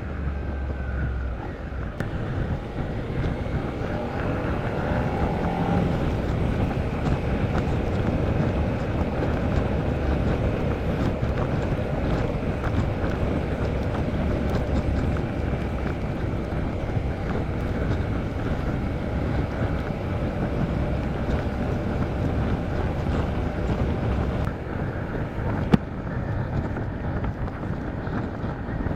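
Motorcycle engine running under way on a wet road, mixed with wind buffeting the microphone. A single sharp click comes near the end.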